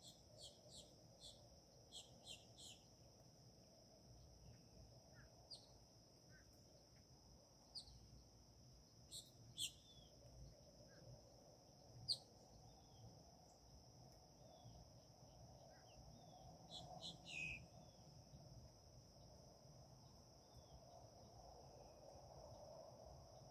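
Faint, scattered short high bird chirps, a few clustered together, over a steady high-pitched drone.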